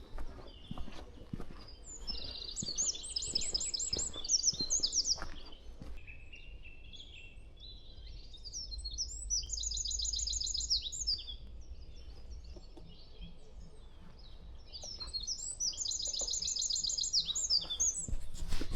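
Eurasian wren singing: three loud song phrases of rapid, high trills, each a few seconds long, with pauses of a couple of seconds between them.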